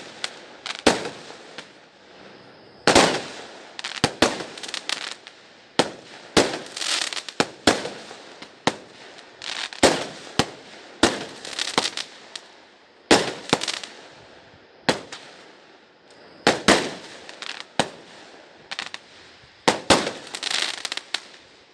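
Fireworks going off in a steady barrage: sharp bangs every second or so, several trailing into crackles, from many launches around the neighbourhood at once.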